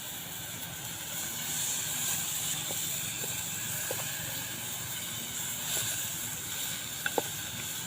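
Sliced banana blossom sizzling steadily in hot oil in a frying pan, with a few faint clicks.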